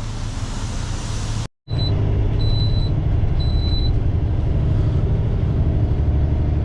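Semi truck's diesel engine running with a steady low rumble. Short high electronic beeps come on and off for a couple of seconds: the seatbelt warning.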